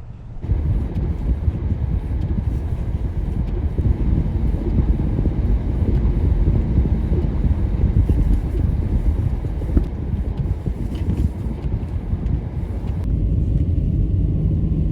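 Storm wind gusting against the microphone: a loud, buffeting low rumble that starts abruptly about half a second in and keeps surging unevenly.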